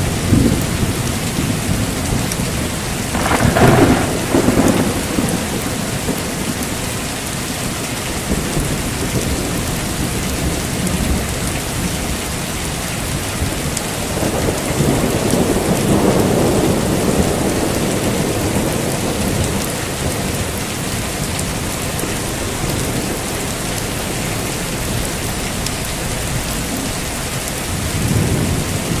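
Heavy rain falling steadily, with rolls of thunder: a sharper crack-and-rumble about three to five seconds in, a longer low rumble in the middle and a fainter one near the end.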